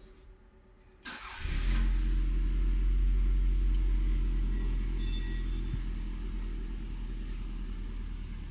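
Toyota 3S inline-four engine being started: the starter cranks briefly about a second in, the engine catches, and it runs at a steady fast idle that slowly eases off.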